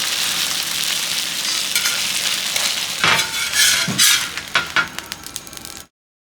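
Octopus Korean pancake batter sizzling as it fries in oil in a wok. A few sharp clicks and scrapes of a spatula against the wok come in the second half, then the sound cuts off suddenly near the end.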